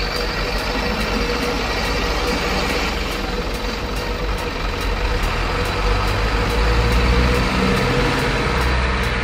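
Radio-controlled model truck running: a steady mechanical hum and rumble with a thin whine, growing a little louder about two-thirds of the way through.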